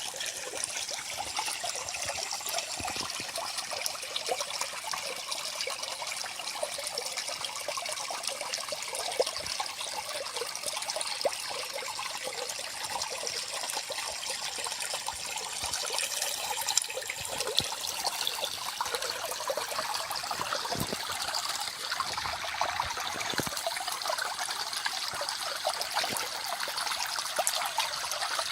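Small forest stream trickling and babbling over its bed, a steady, bright splashing with many small droplet sounds.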